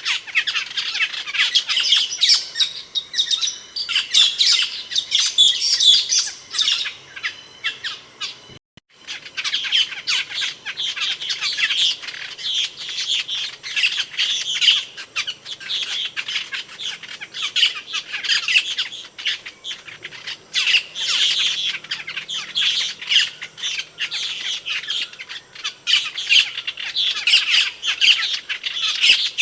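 Asian glossy starling calling: a dense, continuous run of sharp, high, squeaky chattering calls, broken by a brief silent gap about eight and a half seconds in.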